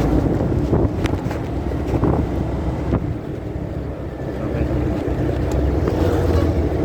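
Muffled wind buffeting and motorcycle road rumble, heard through a phone carried in a pocket while riding. It is a steady rumble with a few faint clicks and rustles.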